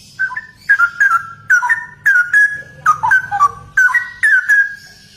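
Straw-headed bulbul (cucak rowo) singing a loud run of rich whistled phrases, about a dozen quick gliding notes one after another, starting just after the beginning and stopping shortly before the end.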